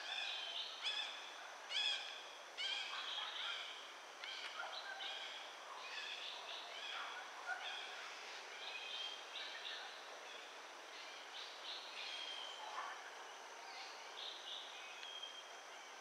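Birds chirping and calling again and again in short notes, some sliding downward, busiest in the first few seconds, over a faint steady high-pitched hum.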